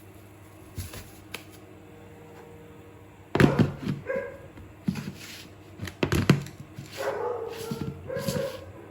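A dog barking several times, starting about three seconds in, with shorter pitched calls near the end.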